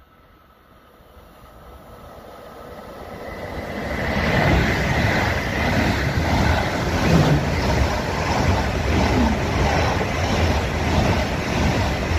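Deutsche Bahn ICE high-speed train approaching and passing through at speed. A rushing noise grows over the first four seconds, then holds as a loud, steady roar of wheels on rail and air as the carriages go by.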